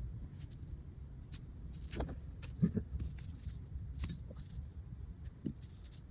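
Scattered light clicks and taps of small metal parts and tools being handled on a workbench, over a low steady rumble.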